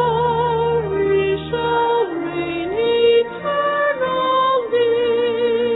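Church music: a voice singing slow, long-held notes with vibrato over a sustained low accompaniment.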